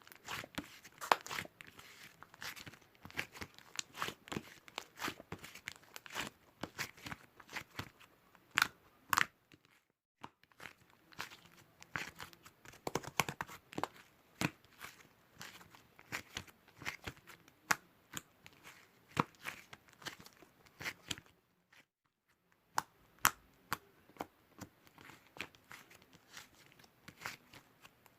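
Crinkling and tearing of something being handled: a fast, irregular run of sharp crackles and clicks, with short pauses about ten seconds in and again around twenty-two seconds.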